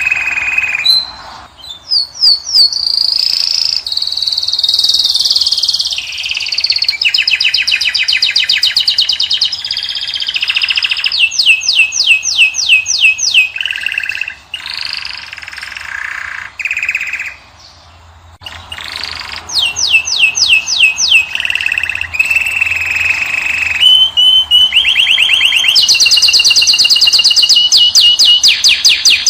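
A caged finch (goldfinch or canary) singing a long, loud, varied song. It strings together rapid rolls of repeated notes, held whistled tones and quick chirps, with a brief pause about two-thirds of the way through.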